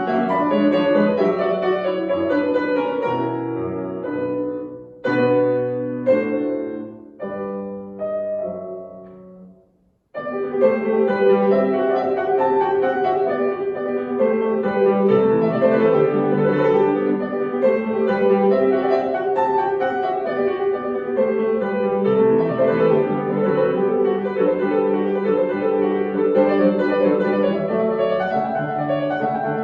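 Solo piano playing classical music. A few separate chords ring and fade, the sound breaks off abruptly about ten seconds in, then steady, flowing playing resumes.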